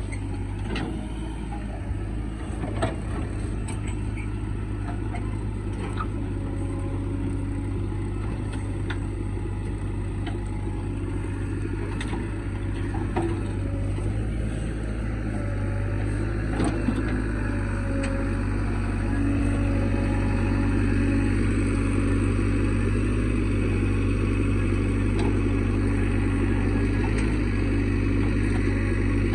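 Diesel engines of a JCB 3DX backhoe loader and tractors running steadily, getting louder about two-thirds of the way in. A few short knocks come through in the first half.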